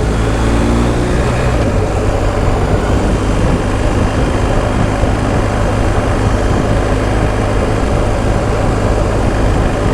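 BMW R1250 GS Adventure's boxer-twin engine running steadily as the motorcycle rides along, with wind noise over the microphone.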